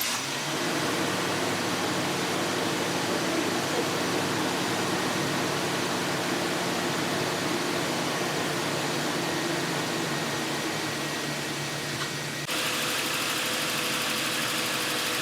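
Toyota 1G-FE inline-six engine idling steadily just after being restarted on fresh crankshaft bearings and new oil.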